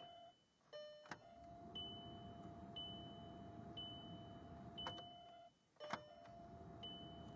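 A 2006 VW Jetta TDI's ignition is switched off and back on twice while the owner cycles the glow plugs on a cold diesel. Each time everything briefly cuts out, then returns with a sharp click. Between the cycles there is a steady electrical whine and a short high dashboard chime about once a second.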